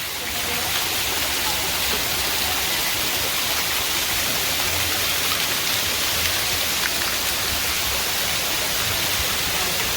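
Steady rush of a waterfall, an even roar of falling water.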